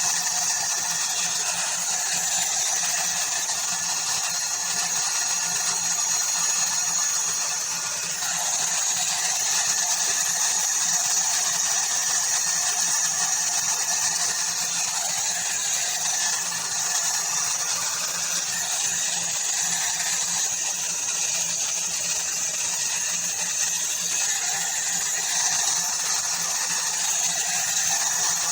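Ubeator hot air brush (hair dryer and styler) running steadily, its small motor and fan giving a high-pitched whine over a rush of air.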